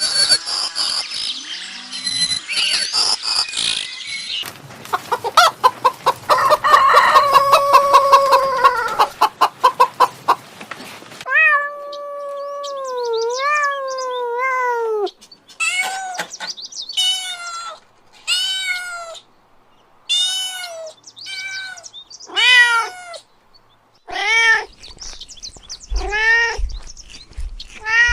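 Animal calls: first a long, rapidly pulsing call and a long wavering one. From about halfway on, a cat meows over and over, short rising-then-falling meows about once a second or so.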